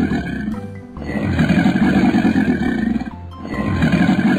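Growling roar sound effect for a cartoon crocodile, repeated in long growls about two seconds each with short breaks between, over background music.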